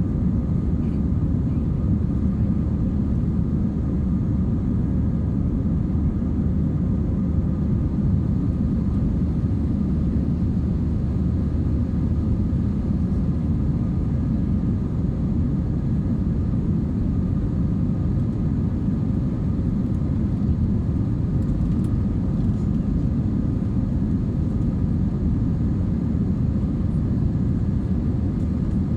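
Cabin noise inside an Airbus A320-232: a steady low drone from its IAE V2500 jet engines and the airflow, with faint steady whining tones above it.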